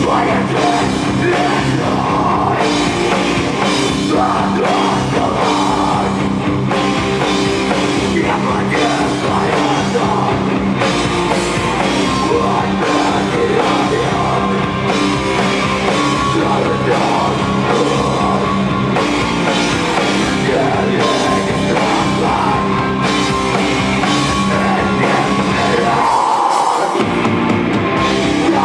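A rock band playing loud and live, with drums and distorted guitar; the low end drops out briefly near the end.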